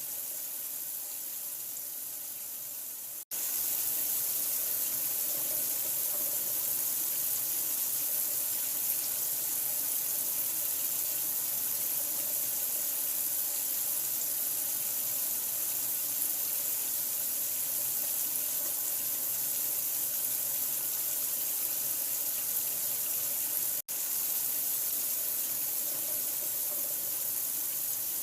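Steady rush of running water, an even hiss strongest in the highs. It cuts out for an instant twice, about three seconds in and again about twenty-four seconds in.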